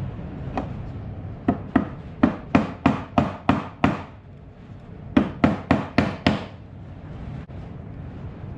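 Ford 302 V8 fuel injector pulsed open over and over during bench cleaning, each pulse a sharp click-and-burst: about nine in quick succession, a pause of about a second, then five more.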